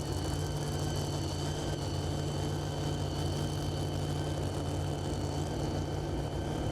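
A super modified two-wheel-drive pulling truck's engine idling steadily, with a steady high whine above its low note.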